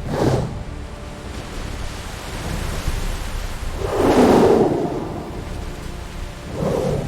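Thunderstorm: a steady wash of heavy rain with three rolls of thunder swelling up. The loudest roll comes about four seconds in.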